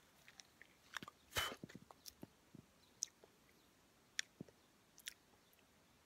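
Close-up mouth sounds of a person chewing a ripe red cherry plum: sparse wet clicks and smacks, with one louder burst about a second and a half in.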